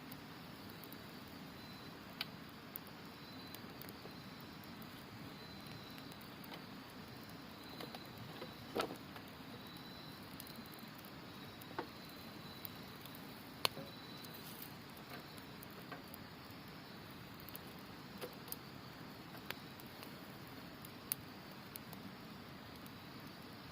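Campfire crackling with scattered sharp pops, one every second or two, over the steady rush of a river, while an autumn insect calls in repeated high chirps.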